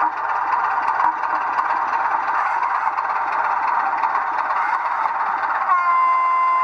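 00 gauge model locomotive running on a layout, its sound decoder playing a rattly engine sound through a small tinny speaker. Near the end a sustained horn note starts and holds.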